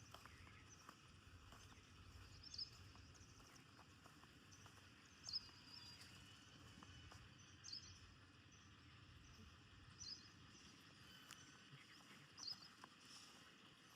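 A bird chirping: a short high call repeated about every two and a half seconds, five times, over faint outdoor background.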